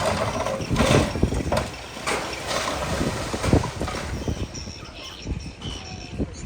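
Heavy earthmoving machinery at work: a series of irregular knocks and clunks, with no steady engine note. Faint high chirps come in the second half.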